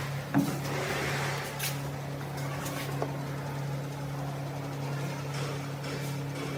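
A steady low mechanical hum, with a few light clicks and knocks.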